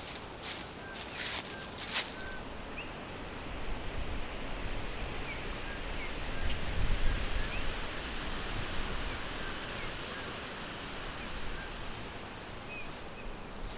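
Forest ambience: a steady rush of wind through leaves that swells with a low rumble about halfway through, and small birds giving short, scattered chirps. A few sharp crackling rustles sound in the first two seconds.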